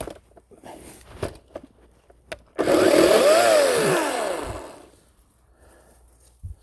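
Ryobi 40-volt cordless electric chainsaw run in one short burst of about two seconds: the motor whine rises and then falls over the rattle of the chain, then it winds down. Light rustling and clicks come before it.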